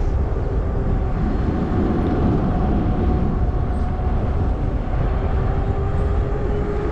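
Wind rushing over the microphone on a moving fat-tire e-bike, with a steady low hum from the bike underneath.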